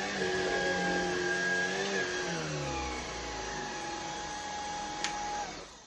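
Shark cordless pet stick vacuum running with a steady motor whine and airflow hiss; its pitch drops a little about two seconds in. Near the end there is a click and the motor shuts off and winds down.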